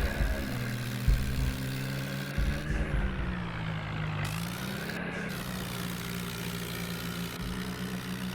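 Diesel tractor engine running steadily, its pitch dipping briefly and recovering about three to four seconds in.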